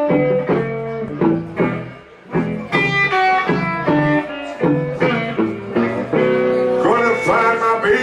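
Guitar playing a blues lick between the vocal lines, note after note with a short break about two seconds in, and string bends near the end.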